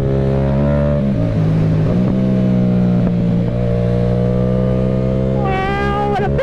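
Yamaha MT-07's parallel-twin engine, fitted with a Mivv aftermarket exhaust, running steadily under way. Its pitch dips briefly about a second in, then holds.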